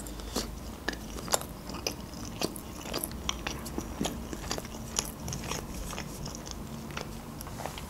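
Close-miked chewing of a mouthful of sushi roll with the mouth closed: irregular small mouth clicks, a few to several a second.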